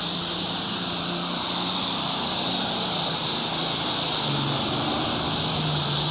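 Allis-Chalmers D21 Super Stock pulling tractor's diesel engine at full power, hauling the weight-transfer sled down the track. Its steady note sags slightly about four seconds in as the sled's load builds, over a wide hiss of exhaust and turbo.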